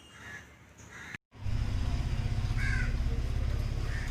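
A bird calling in short calls, four times, over a loud low rumble that starts abruptly after a brief dropout about a second in.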